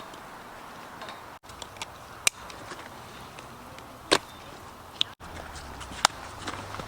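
Scattered sharp clicks and knocks at irregular intervals, four of them loud, over a faint steady background.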